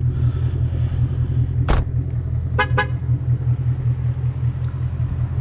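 Mustang GT's V8 engine droning steadily while driving, heard from inside the car. A short sharp sound comes about a second and a half in, then two quick car-horn toots a moment later.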